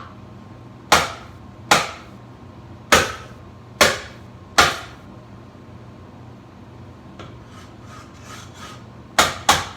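Hammer blows striking a ceiling fan: five sharp strikes roughly a second apart, then a few seconds of faint scraping, then two more quick strikes near the end.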